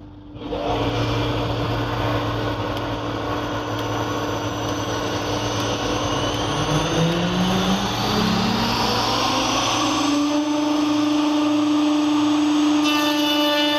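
Automatic edge banding machine's motors starting up: a steady machine hum whose pitch rises over a few seconds as the cutter motors come up to speed, then running at a steady pitch.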